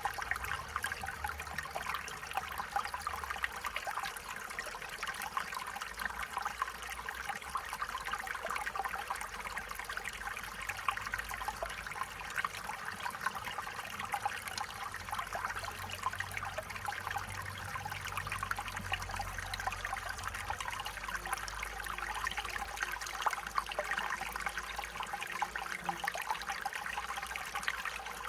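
A small stream running over stones: a steady, even babble and trickle of water.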